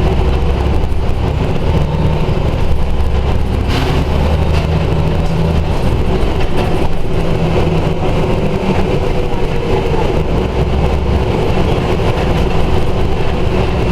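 Scania OmniDekka double-decker bus running in traffic, its diesel engine rising and falling with load, with a brief hiss about four seconds in.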